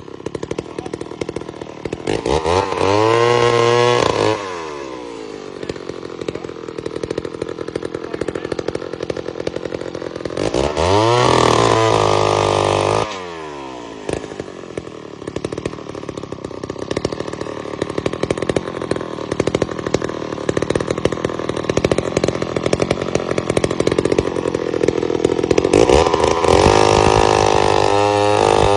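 Old McCulloch 250 two-stroke chainsaw running, settling back between three bursts of full throttle where the engine pitch climbs to a high scream and then falls away.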